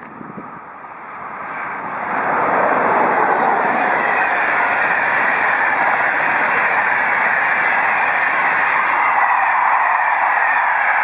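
Passenger train coaches passing close by: the rush of wheels on the rails rises about two seconds in and then holds as a loud, steady roar as the coaches go by.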